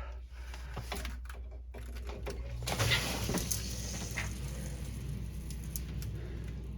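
A few handling clicks and knocks, then about three seconds in a sump pump starts once it is plugged in and runs steadily, pumping water out of the filling pit.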